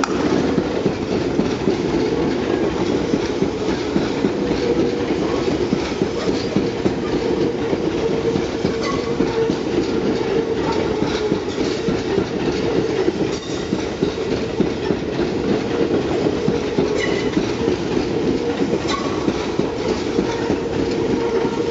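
Tobu 10050-series and 10030-series electric multiple units, ten cars coupled, running past at close range: a steady rumble of wheels on rail with repeated clickety-clack and scattered sharp clicks.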